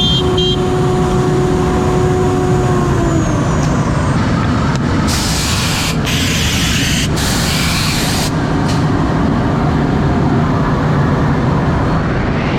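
CNC router milling beech boards: loud steady machine noise, with the spindle's whine falling away about three seconds in. Several loud hissing bursts follow about halfway through, and a rising whine starts near the end as the spindle winds back up.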